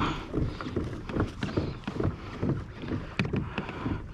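Water sloshing and slapping against a fishing kayak's hull as it moves on the open sea, uneven and choppy, with a few sharp clicks.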